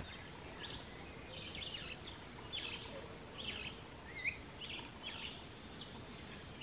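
Small birds chirping: short, high chirps every half second or so, some sliding in pitch. Under them runs a faint, steady high-pitched hum.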